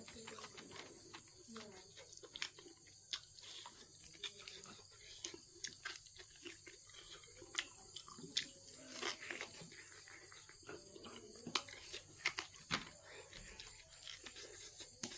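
A person eating close to the microphone: chewing, with many irregular wet smacks and clicks of the lips and mouth.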